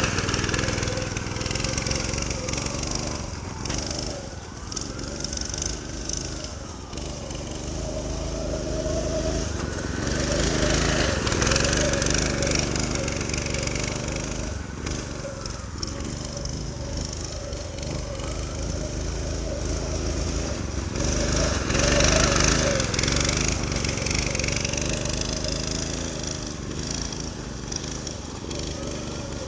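Predator 212 single-cylinder four-stroke engine on a go-kart running under way, growing louder and quieter in long swells as the kart moves around.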